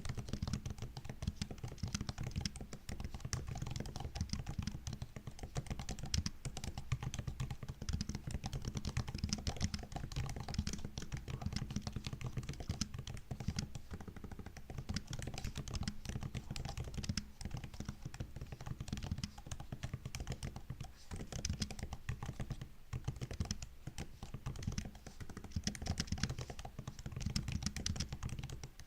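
Continuous typing on a MacBook's built-in keyboard: a dense, unbroken run of light key clicks and taps.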